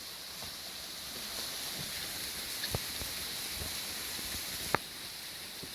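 Steady high-pitched hiss of jungle ambience, with a few light clicks and one sharp tap about three-quarters of the way through.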